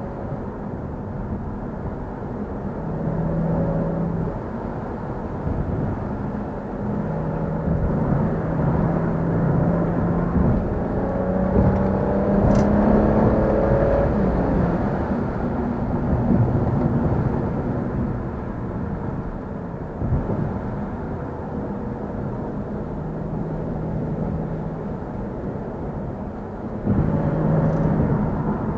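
Car engine and road noise while driving, a steady drone with the engine note rising as the car accelerates about halfway through, and a sudden louder surge near the end.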